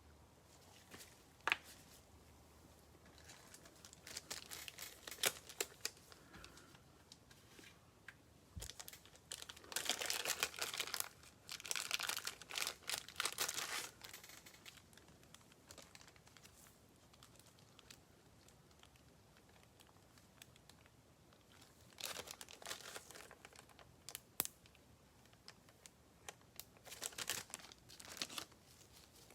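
Plastic packaging crinkling as it is handled, in several bursts, the longest about halfway through, with a few sharp taps between them.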